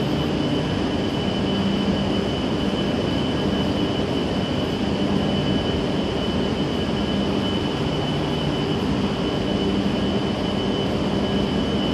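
Steady mechanical drone of a Shinkansen train standing at the platform, its onboard equipment running, with a constant thin high whine over a low hum that swells and fades.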